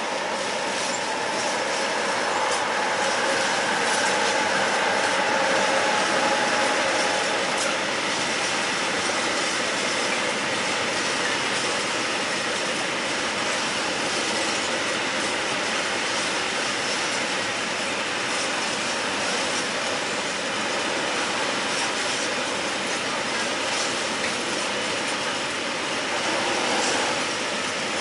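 Freight train of open-top wagons rolling past on the tracks, a steady rumble with faint clicks of wheels over the rail joints. It is loudest for the first several seconds, with a steady whine over the rumble as the head of the train goes by.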